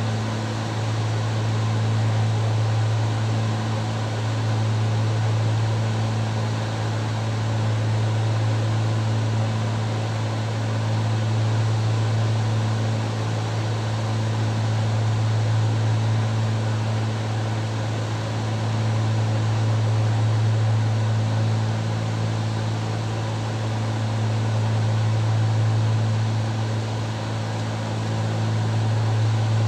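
Cabin drone of a Cessna 310Q twin, its two piston engines and propellers running steadily in flight: a strong low hum under a broad hiss, swelling and fading slowly every four to five seconds.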